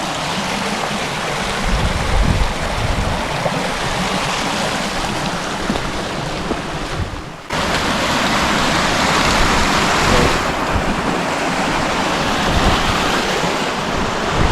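A river rushing steadily, with gusts of wind buffeting the microphone in uneven low rumbles. About halfway through the sound cuts out briefly and comes back louder.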